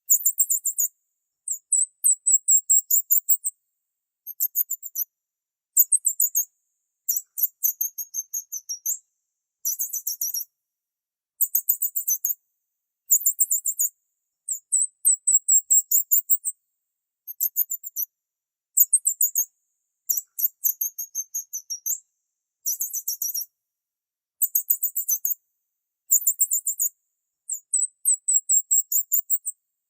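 Bird chirping in very high-pitched, rapid trilled phrases, each about a second long, repeating every second or two with silent gaps between.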